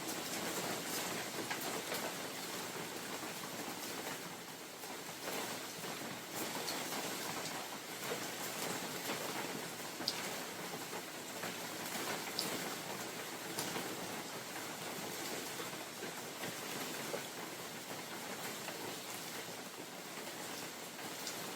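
Steady rain falling in a forest, an even hiss of drops, with a few louder single drops striking close by.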